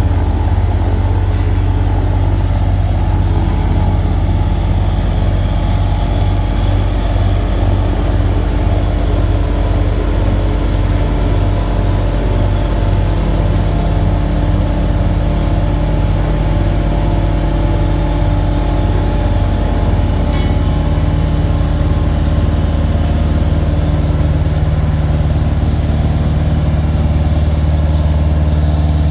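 A motor vehicle's engine running steadily, with an even low pulsing and a slight shift in its pitch about halfway through and again near the end.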